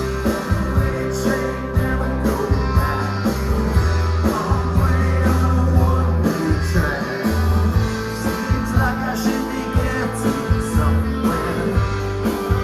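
Rock band playing live, recorded from the audience: electric guitars, bass and drums at a steady loud level.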